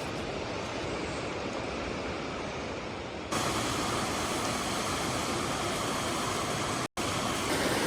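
Steady rushing water. About a third of the way in it turns suddenly louder and brighter, and it cuts out for an instant near the end.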